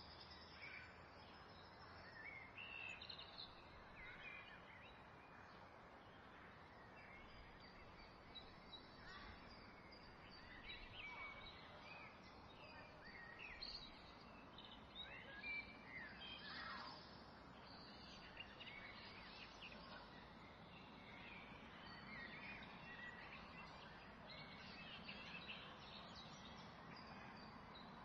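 Faint birds chirping and calling over a steady low hiss, with many short calls scattered all through.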